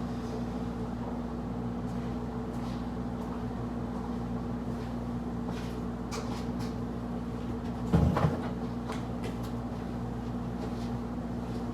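A steady low hum with a few light clicks, and one heavy knock about eight seconds in, from the handling of a microwave oven and its cabinet during removal.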